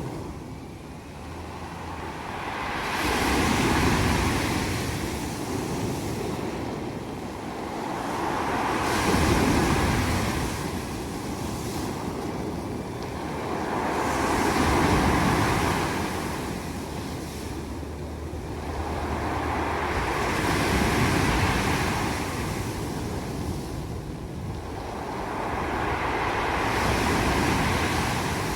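Mediterranean waves breaking on a pebble beach, each one dragging the pebbles with a rattling hiss. About five waves come in, each swelling and fading over five to six seconds.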